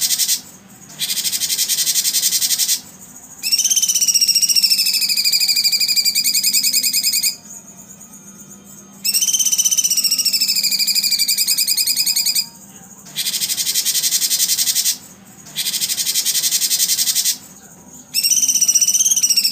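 Songbird-training playback of bird and insect calls: dense, high buzzing bursts lasting about two seconds alternate with long, fast-pulsed trills that slide down in pitch and then level off, with short gaps between the phrases.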